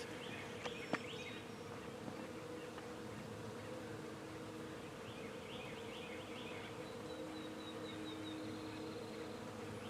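Honey bee swarm buzzing steadily as the bees fly around and move into a nuc box baited with swarm lure.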